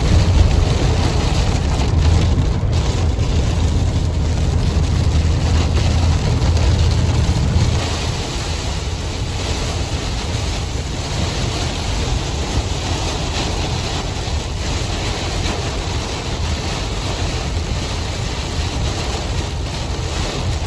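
Road and engine noise inside a vehicle's cabin while driving through a heavy storm, with rain and wind against the car: a steady rushing noise. The low rumble eases about eight seconds in.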